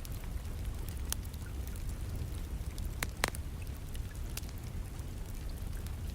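Wood fire burning in a fireplace, crackling with a few sharp pops, two close together about three seconds in, over a steady low rumble and the constant patter of rain.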